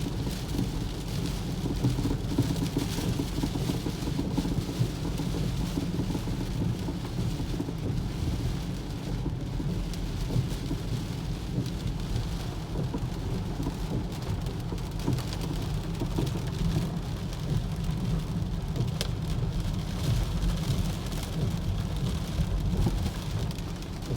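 Heavy rain with a loud, steady low rumble: the strange noise that this 2011 BMW X3 xDrive20d makes only when it rains heavily.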